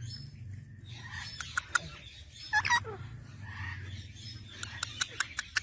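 Parrots calling, probably an adult with its chick: a single falling squawk a little before halfway, then a quick run of short, sharp chirps near the end, over a low steady hum.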